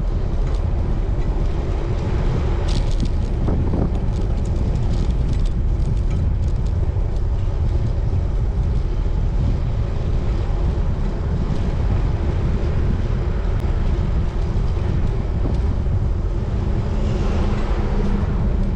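Steady wind rumble buffeting the microphone of a riding road cyclist, with a few faint clicks about three seconds in.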